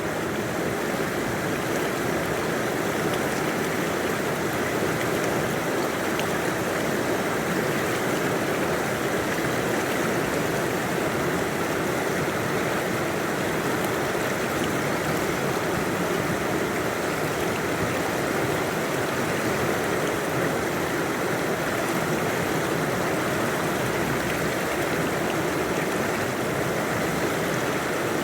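Mountain river or stream rushing steadily over rocks, a continuous even rush of flowing water.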